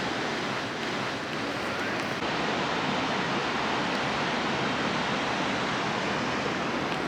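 Steady rushing roar of the Rhine Falls' water, an even noise without pitch or rhythm.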